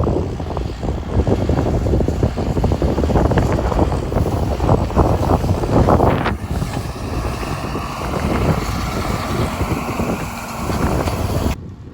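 Farm tractor running under heavy wind buffeting on the microphone. The sound drops away sharply near the end.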